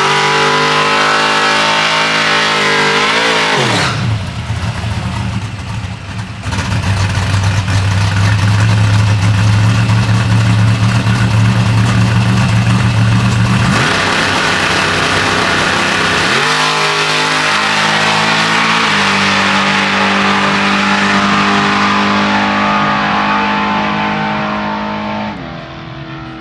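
Drag-race pass: a Chevy truck's engine and its opponent's revving hard and running at full throttle. The pitch sweeps and steps sharply several times, and the sound fades near the end as they pull away.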